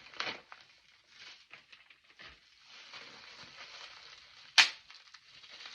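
Packaging bag being handled and opened: scattered crinkling and rustling with small clicks, and one loud sharp snap about four and a half seconds in.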